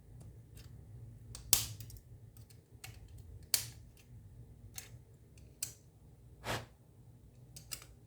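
Sharp clicks and snaps of the Xbox controller's small plastic parts being handled and fitted together, with two louder snaps about a second and a half and three and a half seconds in.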